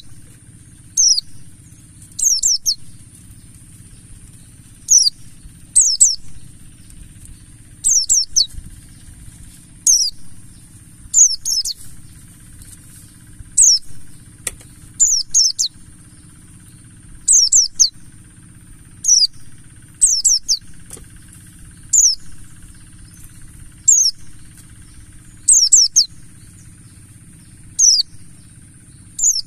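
Oriental white-eye (pleci, buxtoni race) calling: short, high, downward-sweeping chirps, often in quick pairs or threes, repeating every second or two over a steady high hiss and a low hum.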